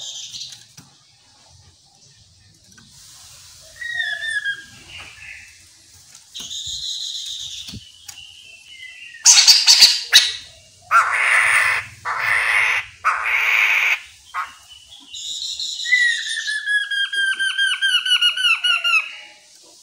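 Chestnut-capped laughingthrush calling: a mix of clear whistled notes, then a few loud harsh rasping bursts in the middle, then a rapid string of short falling notes near the end.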